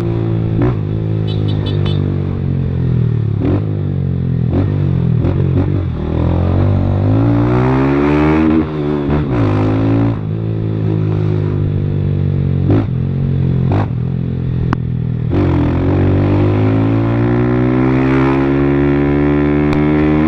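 160 cc motorcycle with a Fortuna Trioval aftermarket exhaust running under hard acceleration: the engine note climbs, drops sharply at each gear change and climbs again several times, with scattered clicks.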